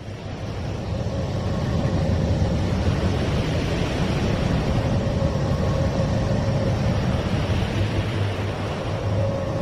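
A space sonification presented as the sound of a planet: a steady, dense rumbling noise with a faint held tone above it, starting abruptly after a brief gap.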